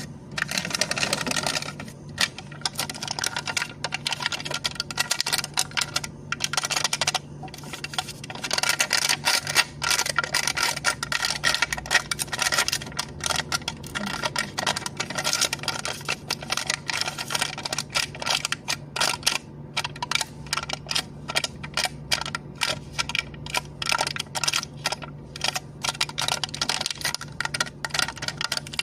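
Rapid tapping and clicking on a cup lid, in quick irregular runs broken by short pauses, over a steady low hum.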